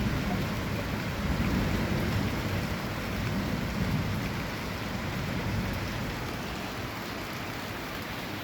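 Heavy rain pouring steadily and splashing on hard surfaces, with a low rumble underneath.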